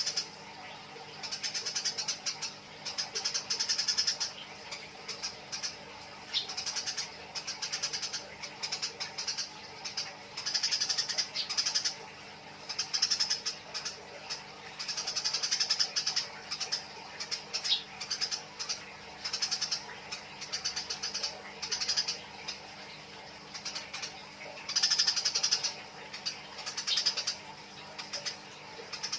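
Eurasian tree sparrows giving harsh, high-pitched chattering calls in rapid bursts about a second long with short gaps: the churring of sparrows fighting. A faint steady hum runs underneath.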